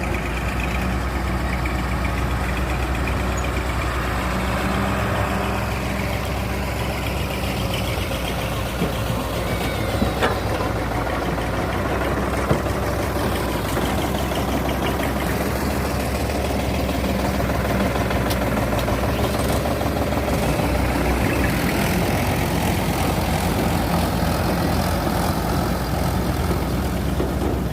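Diesel engines of tractors and an excavator running steadily at work, with a few short knocks about nine to twelve seconds in.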